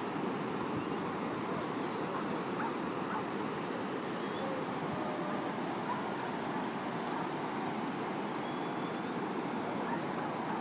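A steady rushing noise with faint dog barks and yips in it.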